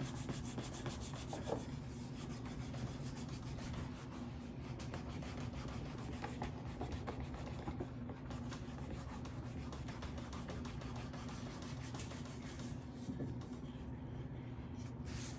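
Wet saddle-seat leather being rubbed and worked tight over the saddle tree by hand: a continuous scratchy rubbing with a few light clicks, over a low steady hum.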